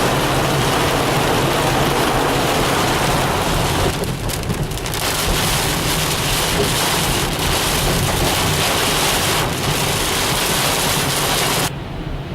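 Heavy rain pouring down, a dense steady hiss that cuts off suddenly near the end.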